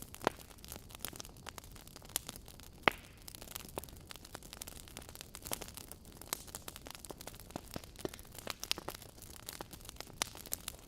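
Wood fire burning in a fireplace, crackling with irregular small pops and snaps over a faint hiss, with two louder pops about a third of a second in and just under three seconds in.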